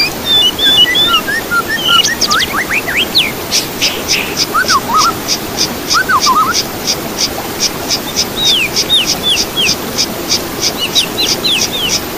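Several songbirds singing and calling together: quick whistled notes sliding up and down, and through the middle a rapid run of short repeated notes at about three to four a second. A steady low rushing noise lies underneath.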